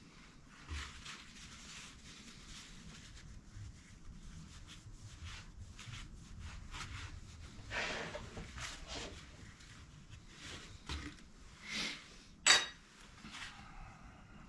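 Metal tools and parts being handled on a workbench: scattered clicks and rustles, with one sharp metallic clink about twelve seconds in.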